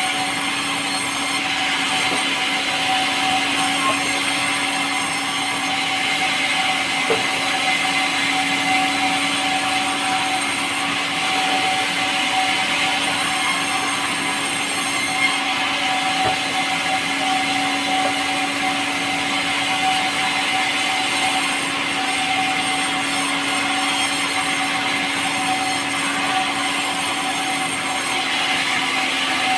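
A power saw running steadily as it cuts through pulai, a light, soft timber.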